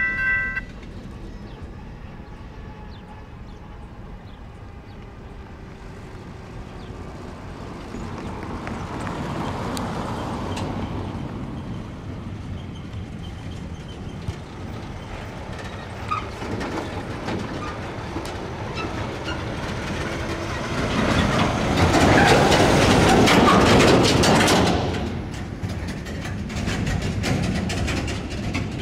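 Electronic crossing bells ring briefly and cut off under a second in. California Northern diesel-hauled local freight train rumbling on the rails as it pulls away, with a louder rush of noise for a few seconds past the middle.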